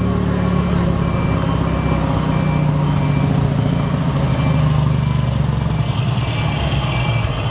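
Scania V8 truck engine running low and steady while its reversing alarm beeps evenly, about one and a half beeps a second, the sign that the truck is in reverse.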